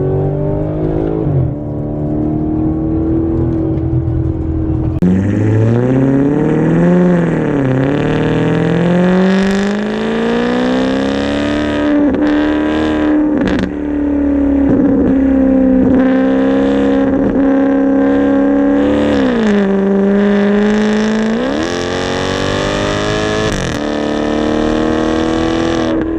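Muffler-deleted 2008 Maserati GranTurismo V8 exhaust, with the resonators left in, in sport mode as the car drives. About five seconds in the engine is pushed hard and the note climbs in pitch with a short break, likely a gear change. It then holds a steady drone, drops back for a couple of seconds near twenty seconds in, and climbs again.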